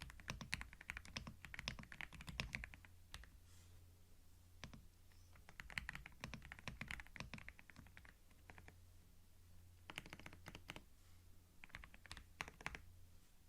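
Computer keyboard typing in quick runs of key clicks, broken by short pauses, over a faint steady low hum.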